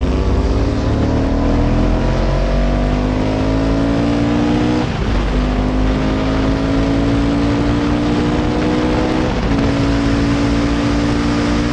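Ducati classic racing sidecar engine at full throttle, accelerating through the gears: its note climbs steadily, drops sharply at an upshift about five seconds in and again at about nine and a half seconds, then climbs again.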